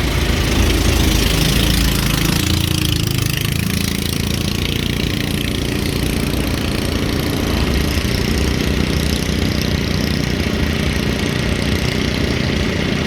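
Small tour boat's engine running steadily, a continuous low rumble with a hiss of water and wind over it.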